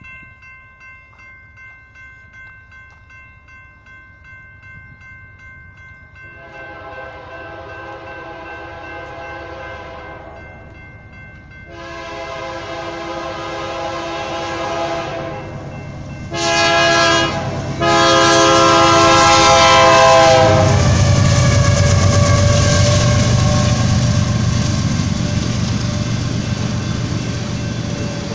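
A railroad crossing bell rings steadily. Then a BNSF freight locomotive's air horn sounds the grade-crossing signal, two long blasts, a short one and a long one, each louder as it approaches. From about two-thirds of the way in, the oil tank train passes close by with a heavy rumble and wheels clacking over the rail joints.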